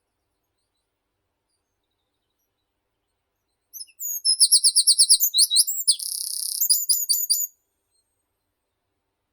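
One songbird song phrase of about four seconds, starting about halfway in: a fast run of repeated high sweeping notes, then a short buzzy stretch and a few closing notes.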